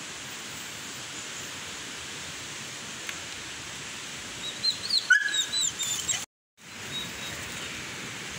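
A forest bird calling in a quick run of short, falling chirps about halfway through, over a steady rushing background hiss. Just after the chirps the sound drops out completely for a moment.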